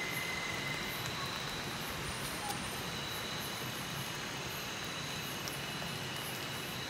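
Night insects calling in steady, thin, high tones over the even hiss of light drizzle.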